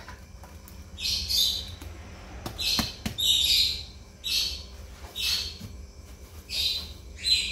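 A bird chirping over and over, short high calls about once a second. A few sharp knocks about three seconds in, from the plastic strainer tapped against the steel pan.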